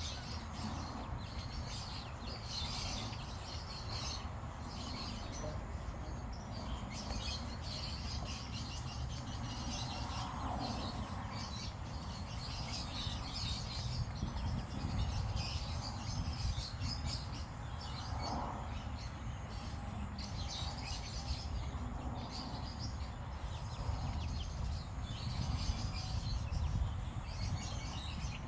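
Baby chicks peeping, many short high chirps repeating over and over, over a steady low background rumble.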